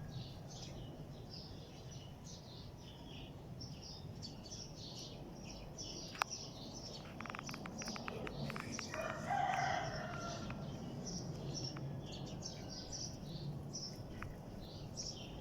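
Many small birds chirping in short, high calls throughout, with a louder, lower call about nine seconds in. A single sharp click about six seconds in and a quick run of clicks a second later.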